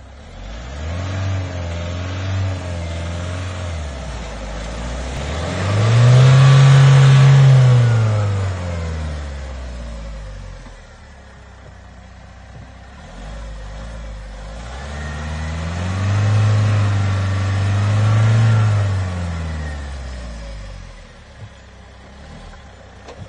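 A motor vehicle's engine running and being revved up and back down twice, the second rise about ten seconds after the first, with lower steady running in between.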